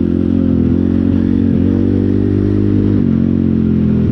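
Pit bike's single-cylinder engine running steadily, its pitch dipping slightly about one and a half and three seconds in.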